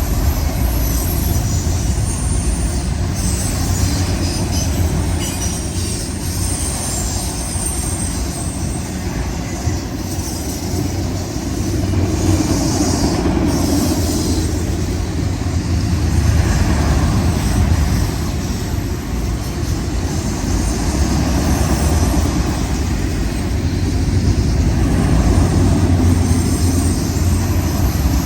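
Freight train of auto-rack cars rolling past: a steady, loud rumble of steel wheels on rail, with a faint high squeal from the wheels at times.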